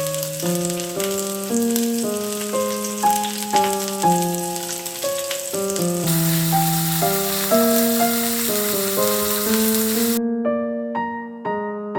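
Gentle piano music over a steady hiss. The hiss grows louder about six seconds in and cuts off suddenly near the end, leaving the piano alone.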